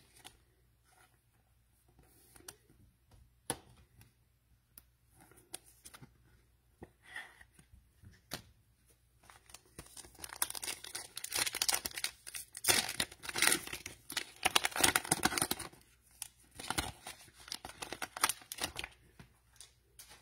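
Cellophane wrapper of a trading-card cello pack being torn open and crinkled. A few light clicks and taps come first, then a dense crackle of crinkling plastic from about halfway to near the end.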